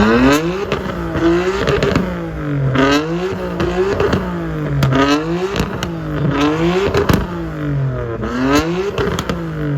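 1995 Nissan Skyline GT-R's twin-turbo straight-six revved through its exhaust over and over, the pitch climbing and dropping about every second and a half, with sharp pops and cracks from the exhaust at several of the revs.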